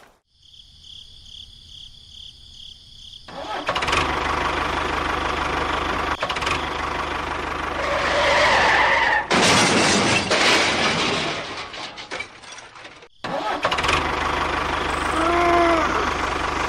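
Engine running steadily, starting about three seconds in after a pulsing high-pitched tone, with sudden changes where clips are cut together.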